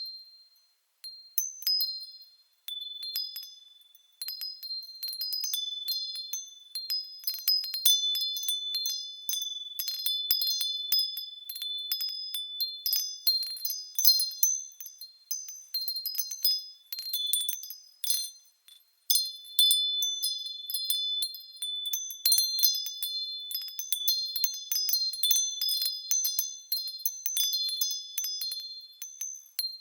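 Japanese furin wind chimes ringing in the breeze: clear, high bell tones struck at irregular moments, often several overlapping. There are brief lulls in the first few seconds and once more about two-thirds of the way through.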